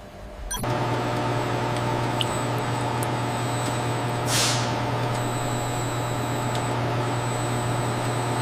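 Steady hum of running food-processing machinery, starting about half a second in, with a short hiss of released air or steam about four seconds in.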